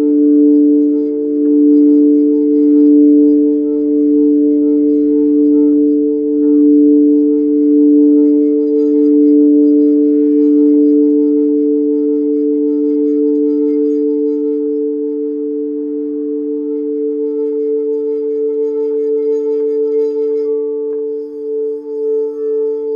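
Singing bowls sounding two steady, sustained tones, one lower and one higher, that pulse slowly in a wavering beat.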